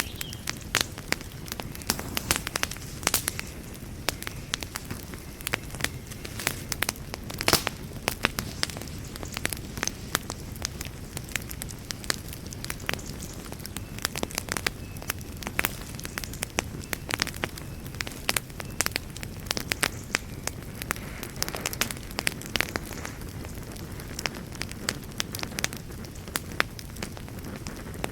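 Wood fire burning in a fireplace: a steady low rushing hiss with frequent irregular crackles and pops, a few sharper snaps standing out.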